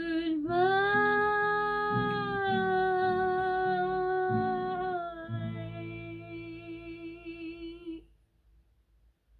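A woman's voice holding one long wordless note with a slight vibrato over plucked acoustic guitar, the final note of the song; voice and guitar stop together about eight seconds in.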